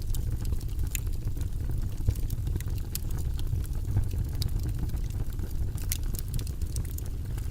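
Fireplace fire burning: a steady low rumble of flames with irregular sharp crackles and pops scattered throughout.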